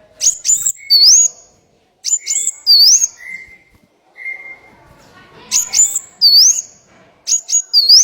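Small songbird calling in repeated phrases: a burst of rapid high chirps followed by a swooping, rising whistle, four phrases with short pauses between. This is a masteran recording of small-bird calls meant for songbirds such as the murai to copy.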